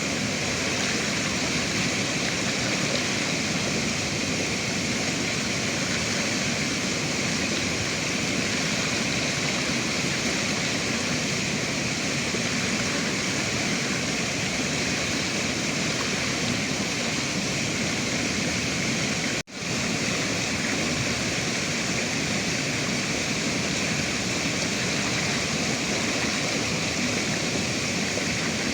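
Steady rushing of river water, an even noise without change. It cuts out for an instant about two-thirds of the way through, then carries on.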